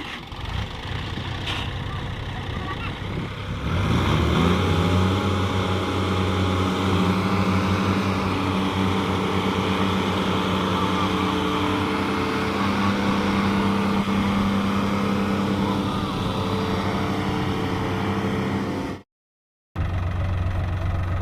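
A heavy diesel engine revs up about four seconds in, then holds at high revs with a steady drone. The sound drops out briefly near the end and the engine resumes.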